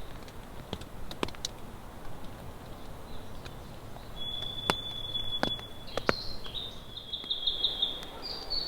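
A songbird singing: one long, steady high whistle about four seconds in, then a quick warbling run of high notes near the end. Underneath, a steady hiss of rain with a few sharp drops tapping.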